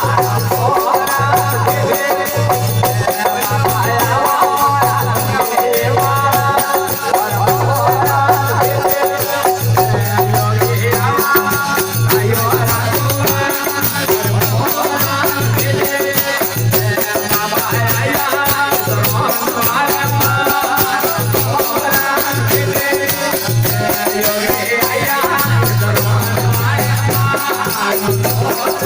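Rajasthani desi veena bhajan music: a melodic line over a drone, with fine rattling percussion keeping a steady rhythm and a low tone that comes and goes.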